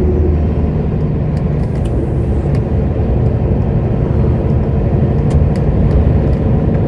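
A lorry's diesel engine running, heard from inside the cab as a steady low drone with road noise.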